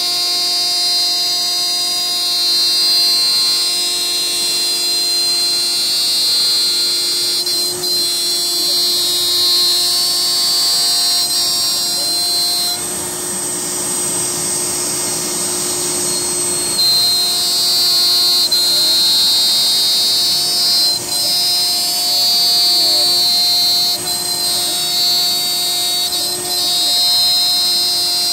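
CNC router spindle running with a steady whine while the bit cuts outside profiles in 1-inch HDPE, taking a quarter inch per pass. For a few seconds past the middle the tone blurs into a rougher, noisier cutting sound, then the steady whine returns.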